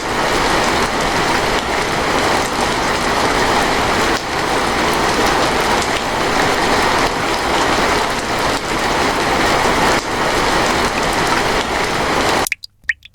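Rain falling steadily, a dense even hiss that cuts off abruptly near the end.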